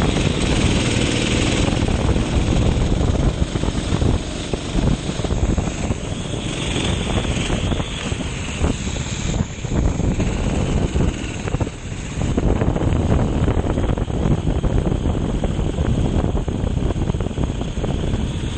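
Go-kart engine running hard under racing load, with noisy rushing over it. The sound dips briefly several times and the engine note falls and climbs again.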